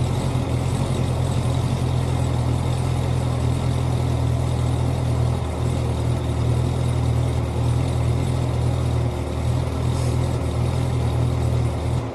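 2009 Cadillac CTS-V's supercharged V8 idling steadily with a deep, even exhaust rumble, running with the primary catalytic converters replaced by test pipes, stock mufflers and secondary cats still in place.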